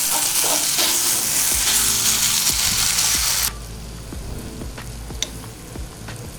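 Chicken frying in hot oil in a pan, a loud sizzle that drops off suddenly about halfway, followed by quieter sizzling with a few light taps of a spoon.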